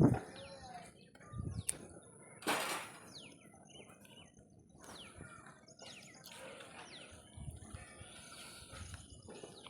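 Small birds chirping: short, high calls that fall in pitch, repeated on and off. A brief hiss-like burst about two and a half seconds in.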